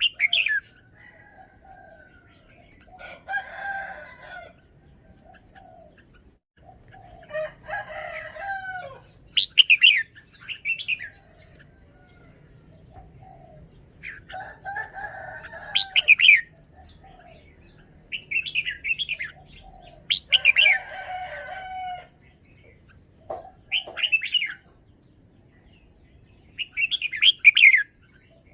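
Red-whiskered bulbul singing short, bright phrases of a few quick notes every few seconds. Softer, lower bird calls come in between the phrases.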